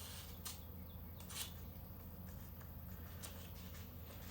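Faint rustling and a couple of light clicks from a mailed package being handled, over a steady low hum.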